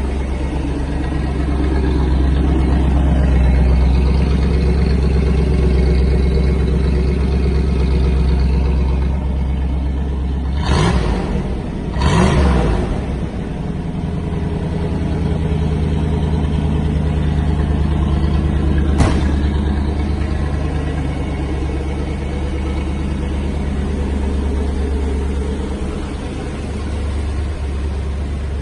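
1978 Pontiac Firebird's engine idling steadily, revved in two quick blips near the middle, with a single sharp click a little later.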